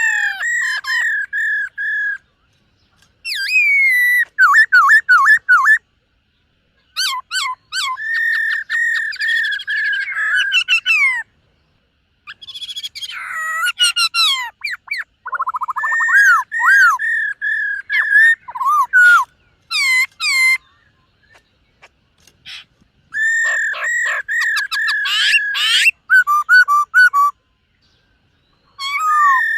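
Black-throated laughingthrush singing: loud, clear whistled phrases of quickly repeated warbling notes, in bursts of two to eight seconds with short pauses between them.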